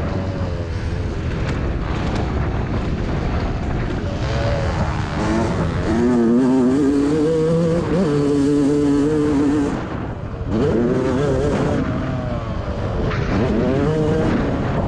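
Motocross bikes racing, engines revving hard through the gears. About six seconds in the revs climb and hold high. Near ten seconds they cut off sharply, as when a rider shuts the throttle, then pick up again.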